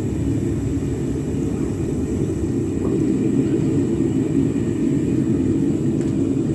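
Home foundry furnace burner running at full heat with a steady low rumble during a bronze melt.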